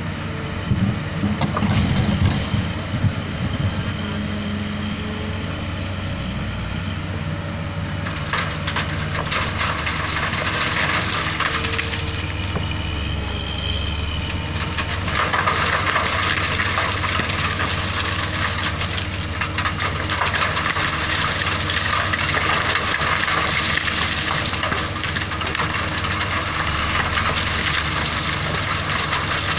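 Excavator's diesel engine running steadily, with a few knocks in the first few seconds and louder hissing noise from about halfway on.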